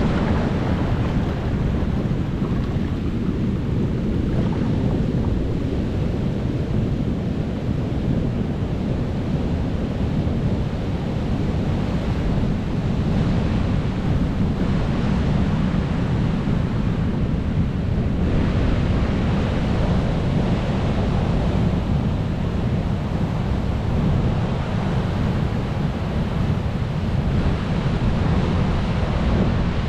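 Ocean waves breaking and washing on the shore, a steady heavy rumble of surf with swells of brighter hiss as waves break, about 13 seconds in and again from about 18 seconds.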